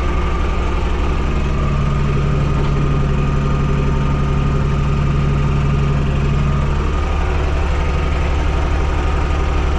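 TYM T224 subcompact tractor's diesel engine running steadily. From about a second in until about seven seconds, a deeper hum in its sound strengthens, then drops back.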